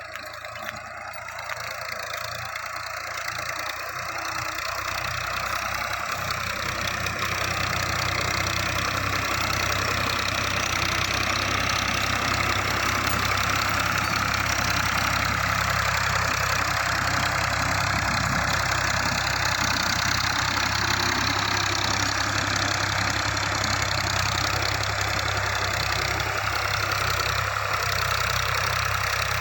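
A 480 tractor's diesel engine running steadily. It grows louder over the first several seconds, then holds an even level.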